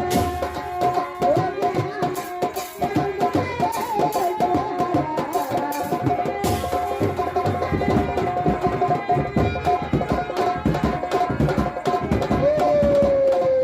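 Instrumental interlude of Indian folk music: rapid tabla and drum strokes under a sustained melody line held on one note, gliding down near the end.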